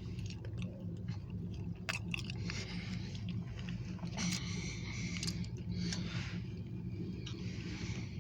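Diesel locomotive engine running at a low, steady idle, with irregular crackling and rustling close to the microphone.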